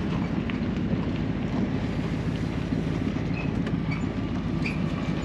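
Vehicle engine running steadily with a low hum, and a few faint short squeaks over it.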